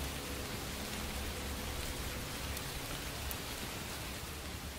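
Steady rain falling: an even hiss with a few sharp drop ticks.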